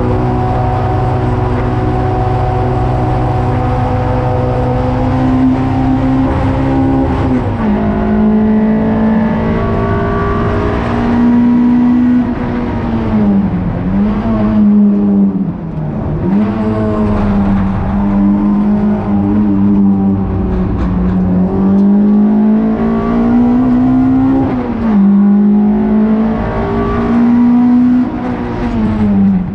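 Toyota Sprinter Trueno race car's four-cylinder engine working hard through a lap. It holds steady high revs at first, then about seven seconds in the revs drop, and after that they dip and climb again several times through gear changes and corners.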